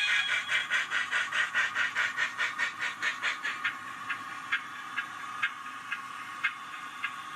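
Accurascale J68 model steam tank engine's DCC sound decoder playing steam exhaust chuffs through its small onboard speaker, the beats slowing steadily from about five a second to about one a second as the locomotive slows. A whistle note cuts off right at the start, and a steady high hum runs underneath.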